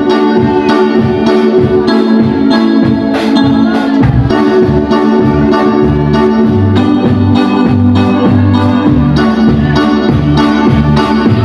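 Live band music during a church performance: held keyboard chords over a pulsing, rhythmic bass line.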